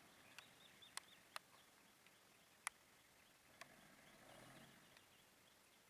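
Near silence: faint outdoor ambience broken by about five short, sharp clicks, the loudest near the middle, with faint high chirps early on.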